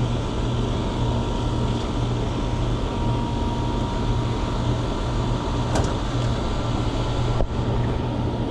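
Steady mechanical hum from a running machine, with a sharp click about six seconds in and a brief knock about a second later.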